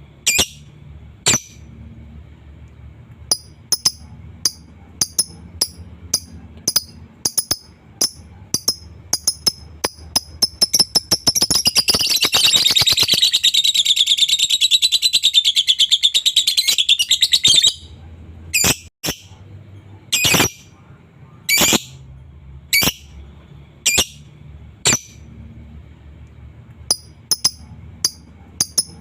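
Lovebird calling: sharp high chirps spaced about a second apart. About eleven seconds in, it breaks into a fast, continuous chattering trill (the long 'ngekek') for about six seconds, then goes back to single chirps.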